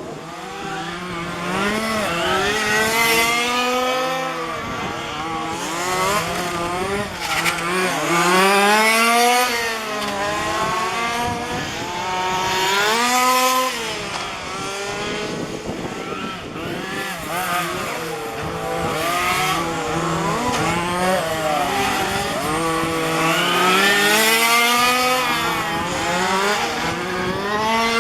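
Several 1:5-scale petrol RC cars' small two-stroke engines racing around the track, more than one at a time. The engines rev up and drop off again and again, with their pitch rising and falling as they accelerate and brake.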